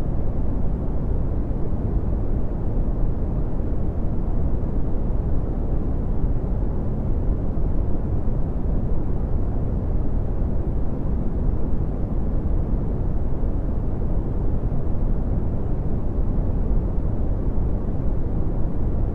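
Red (Brownian) noise: a steady, even hiss weighted heavily toward the low end, a deep rumble that thins out toward the treble.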